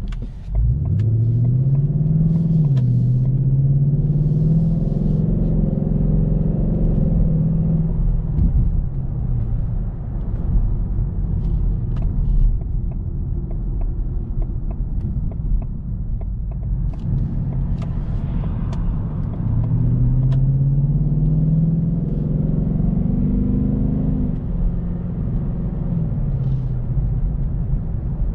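Ford Mustang GT's 5.0 V8 on the move, pitch climbing under acceleration, dipping at a gear change a couple of seconds in, then climbing again and holding before easing off. Near twenty seconds in it pulls up again for a few seconds and then drops back.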